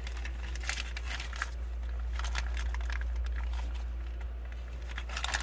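Small metal shifter hardware (bolts and crush washers) and its packaging being handled: scattered light clicks and rustles over a steady low hum.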